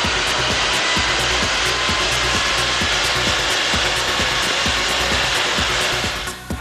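Seat Leon TDI diesel, remapped and fitted with a larger GT17/20 turbo, under load on a rolling-road dynamometer: a loud, steady whir of engine, tyres and rollers. The sound drops away briefly near the end.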